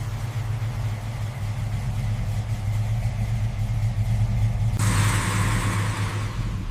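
Car engine running with a steady low drone. About five seconds in, a broad hissing noise joins it and lasts to near the end.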